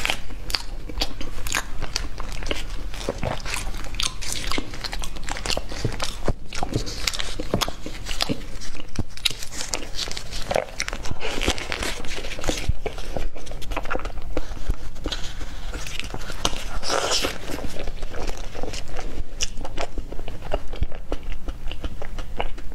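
Close-miked eating sounds: bites and chewing of a soft cream-filled pastry, a dense run of small irregular mouth clicks.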